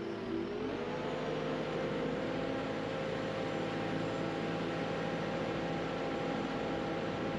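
Heavy equipment engine running under load, revving up about half a second in, then holding steady at the higher speed.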